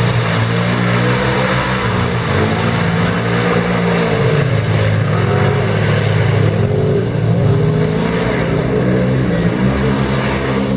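Quad bike (ATV) engines running loud and revving, their pitch rising and falling every couple of seconds.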